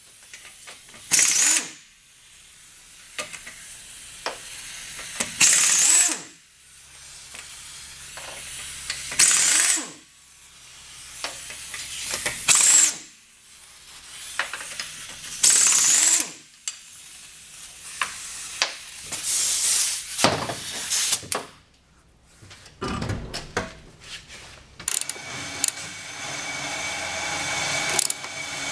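Air impact wrench (buzz gun) undoing wheel nuts in short bursts a few seconds apart, each with a hiss of air. Near the end it runs in a longer, steadier stretch.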